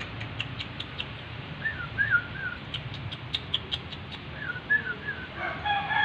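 Bird calls: two runs of quick, sharp clicks, two short warbling chirp phrases, and about five and a half seconds in a long call held at a steady pitch.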